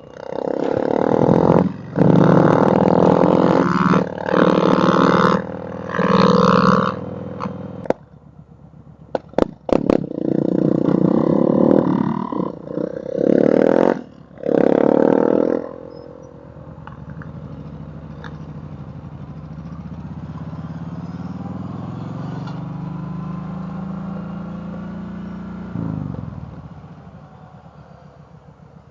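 Motorcycle engine revved in a series of loud throttle blips, each a second or two long, with a couple of sharp clicks about ten seconds in. Then a quieter motorcycle engine pulls away, its pitch rising steadily for about ten seconds before dropping off near the end.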